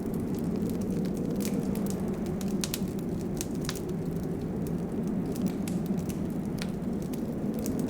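Wood fire crackling, with frequent sharp little pops scattered irregularly over a steady low rumble.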